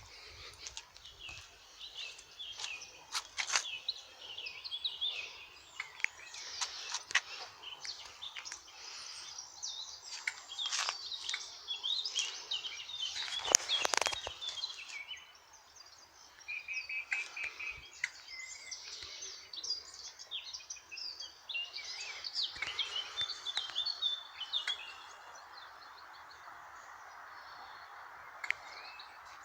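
Wild birds singing and chirping in quick, busy phrases, with a few sharp clicks among them; the singing thins out near the end, leaving a steady hiss.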